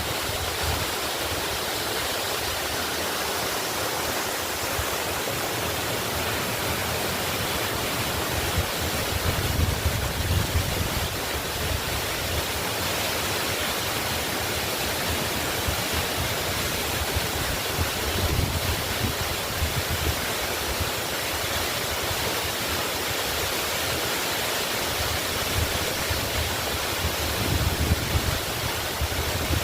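Waterfall: a steady rush of falling water, with a deeper rumble swelling up a few times.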